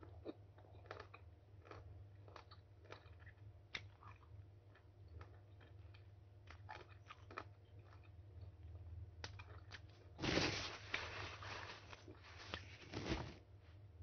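Close-up chewing and crunching of mango slices: many small mouth clicks and crunches, with two louder, longer noisy stretches about ten and twelve and a half seconds in.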